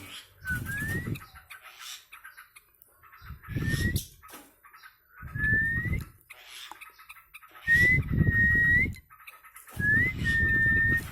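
Short whistles repeated about every two seconds, each rising in pitch or held on one note, with a low rumble under each. The last two whistles are longer.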